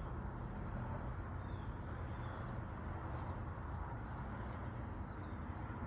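Steady background noise with a few faint, short high chirps scattered through it.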